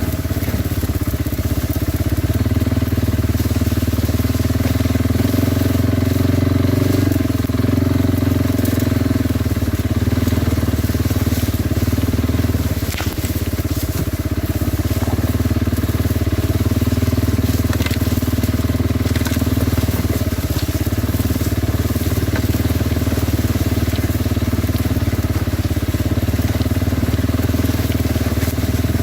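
Kawasaki Brute Force 300 ATV's single-cylinder four-stroke engine running at a steady pace under way, with a haze of tyre noise and small scattered clicks and knocks from the rough ground. The engine eases off briefly about 13 seconds in.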